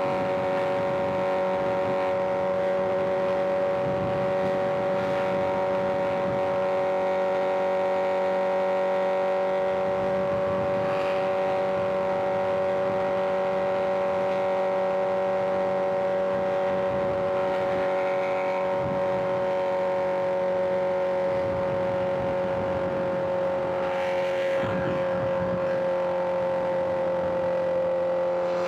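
Liter-class inline-four sport bike engine running at a steady cruising speed on the highway, its pitch holding level with a slight dip near the end.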